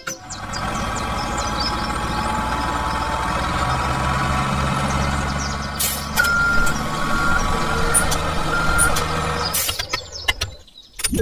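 Heavy vehicle engine running steadily, with a reversing alarm beeping four times from about six seconds in.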